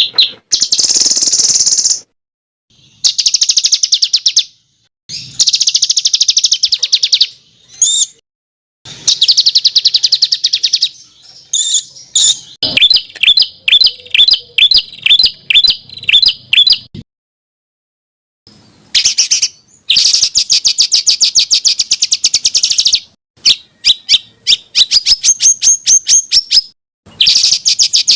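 Songbird singing a varied training song of fast trills and runs of repeated notes, in bursts broken by abrupt dead silences. About halfway through comes a run of short, clipped notes at roughly three or four a second, and near the end a few rising whistles.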